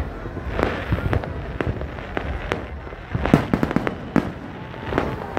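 Fireworks going off: irregular sharp bangs and pops, with a quick cluster of several about three and a half seconds in, over a low rumble.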